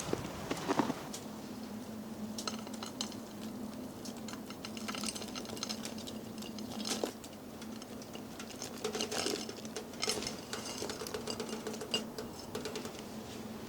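Many quick, light clicks and clinks, coming in irregular clusters, over a steady low hum.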